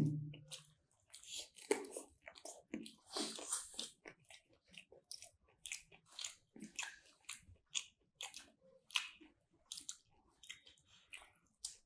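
Close-up chewing and wet mouth smacks of people eating chow mein noodles and omelette: soft, irregular clicks and smacks with no talking.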